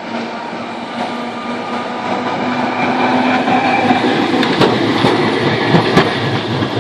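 Historic electric tram passing, its rumble growing louder over the first few seconds, then its wheels clacking sharply over rail joints several times near the end.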